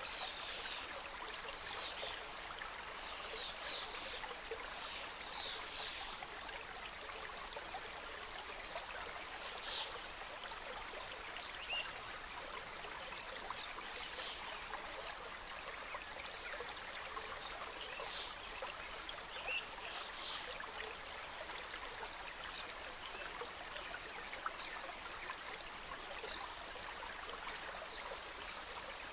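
Mountain stream cascading over rocks: a steady rush of flowing water, with small brighter splashes now and then.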